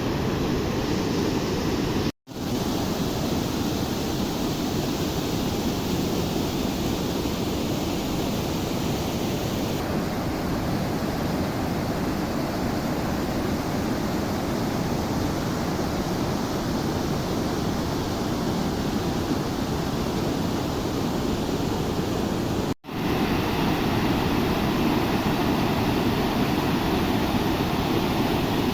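Floodwater rushing in a swollen river, a steady heavy wash of water. It is broken twice by a brief cut to silence, about two seconds in and again about three quarters of the way through.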